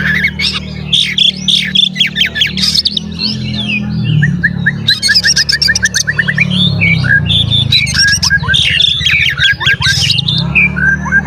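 Oriental magpie-robin (kacer) singing a loud, varied song of whistles and harsh notes. About four seconds in there is a fast run of repeated short notes. A steady low hum runs underneath.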